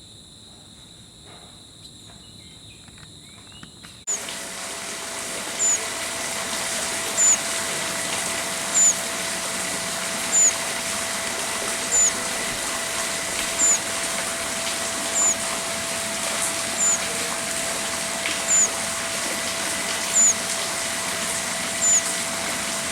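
Insects shrilling in steady high tones for about four seconds. Then the sound cuts to a louder steady hiss with a faint steady hum, and a short high chirp repeats about every one and a half seconds.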